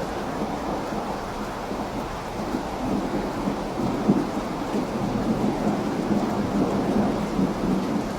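Steady rain with a low, continuous rumble underneath, as of distant rolling thunder.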